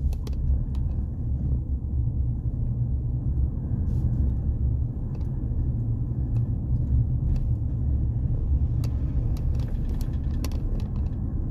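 Steady low rumble of a road vehicle driving, with a few light clicks scattered through it.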